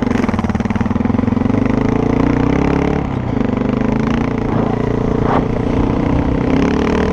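Motorcycle engine running under way, its pitch rising slowly, dipping briefly about three seconds in and then climbing again.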